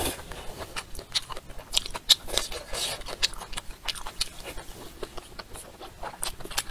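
Close-miked eating: biting and chewing a mouthful of food, with wet mouth smacks and many quick, sharp, irregular clicks.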